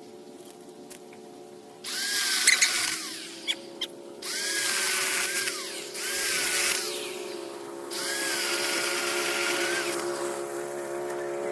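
A power tool run in four bursts of about two seconds each, its motor whine rising as each burst starts, over a steady hum from a running motor.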